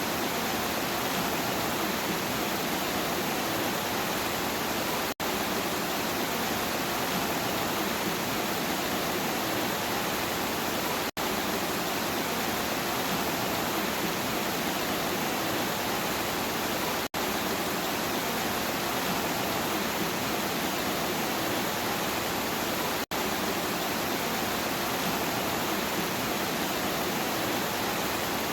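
Steady, even rain, with very short drop-outs to near silence about every six seconds.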